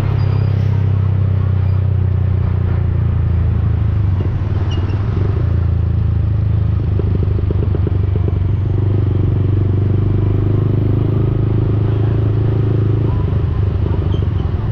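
Yamaha XSR155's single-cylinder engine running steadily through an aftermarket Akrapovic-replica exhaust while riding, its low note shifting slightly a few times. Wind noise on the camera's microphone.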